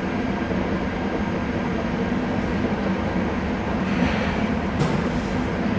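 KVB B80D light-rail car running on its old traction motors fed by a new traction converter, a steady rail-car running sound with faint steady tones. A brief sharp click comes about five seconds in.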